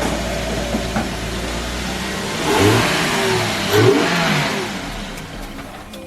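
Lexus IS300 SportCross's 2JZ-GE inline-six engine running, with two brief swells of revving in the middle, then fading away toward the end.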